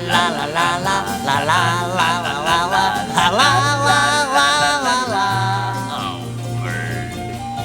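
Song: a voice singing wordless 'la la la' over a guitar-led band, the voice stopping about five seconds in while the instruments play on.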